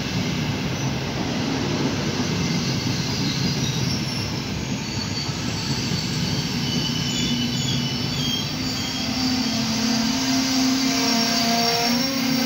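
Trenitalia Frecciarossa high-speed train rolling slowly along the platform as it pulls into the station: a steady rumble of wheels on rail, with faint high-pitched squeals coming and going and a low hum that grows louder near the end.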